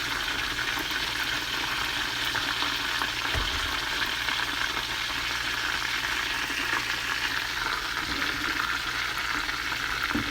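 Breaded chicken thighs shallow-frying in hot oil: a steady, dense sizzle, with a faint knock or two of a utensil against the pan.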